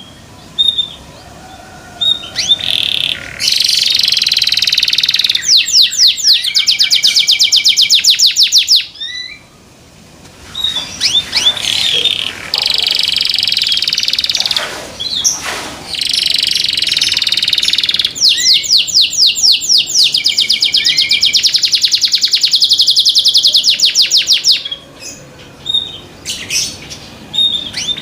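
Domestic canary singing: high song phrases with long, very fast trills of repeated notes, broken by short pauses.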